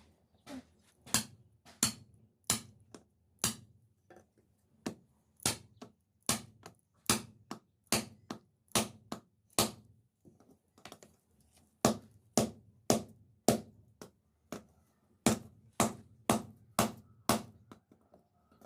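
Hand hammer striking metal in forging, sharp blows at about two a second with a couple of short pauses.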